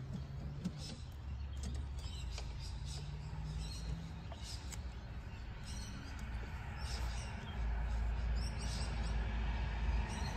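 Birds chirping in short high calls over a steady low rumble that gets louder about three quarters of the way through, with a few faint clicks.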